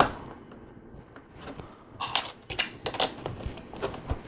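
Plastic LEGO pieces clicking and clattering as they are handled and pressed together: one sharp click at the start, then a quick run of several clicks about two seconds in, with a couple of soft knocks near the end.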